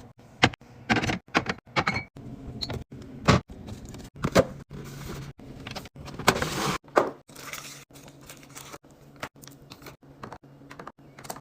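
Groceries being handled and put away in a refrigerator: irregular clicks, knocks and clatter of containers and packages set on shelves, with a spell of rustling packaging a little before the middle.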